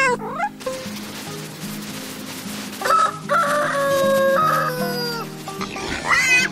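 A rooster crows once, a long call of about two seconds starting about three seconds in, over background music with steady low notes. A brief high wavering call comes at the very start.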